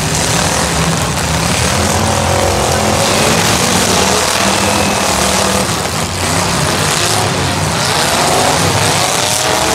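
Several demolition derby cars' engines running loudly together, revving up and down, over a steady wash of noise.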